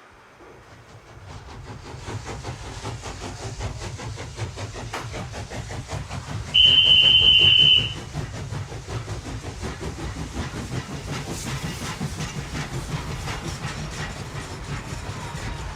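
Model train running on the layout: a low rumble that builds over the first couple of seconds, with fine rapid clicking of wheels on the track. About six seconds in, one steady high-pitched horn blast, the loudest sound, lasts about a second and a half.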